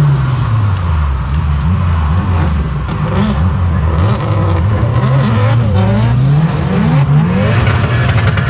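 Turbocharged Nissan CA18 four-cylinder engine in a drifting car, revving up and down repeatedly as the throttle is worked on and off.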